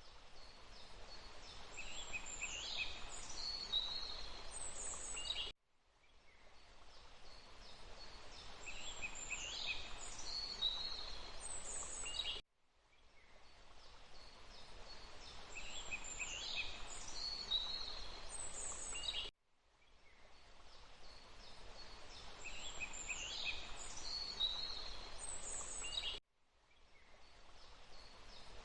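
Steady rushing water with songbirds calling over it, on a short recording played in a loop. About every seven seconds the sound cuts off abruptly, fades back in, and the same bird phrases repeat.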